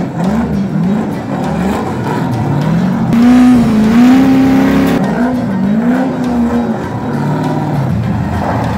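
Engines of a hot-cammed LS3 V8 Dodge M37 truck and a Mustang drift car revving up and down repeatedly as the vehicles spin in the dirt. The revs climb and hold highest for a couple of seconds around the middle.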